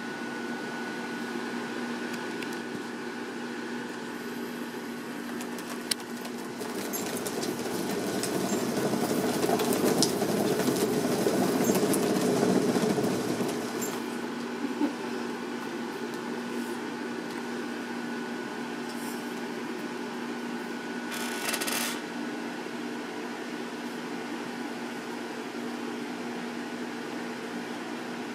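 Cat exercise wheel turning with a rolling whir that builds about a quarter of the way in and fades about halfway through, over a steady mechanical hum. A couple of single clicks and a short rustle come later.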